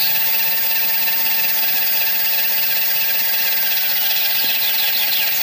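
Small electric motor of a toy fire engine whirring steadily.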